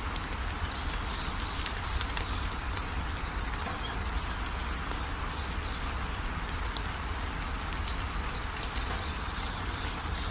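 Steady rain with a deep rumble beneath it, and a bird calling in two runs of short, quick, high chirps a few seconds apart.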